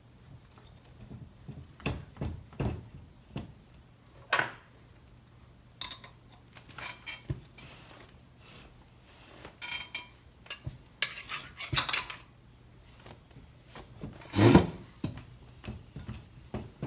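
Hand tools and small metal parts clinking and rattling in irregular clicks and knocks during chainsaw bar stud work, with the loudest clatter near the end, over a low steady hum.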